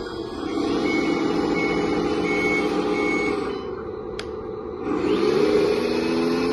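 Simulated diesel engine sound from the RC Volvo A40G dump truck's sound module running steadily, with four short reversing beeps in the first half as the truck backs up. A sharp click comes about four seconds in, then the engine sound revs up.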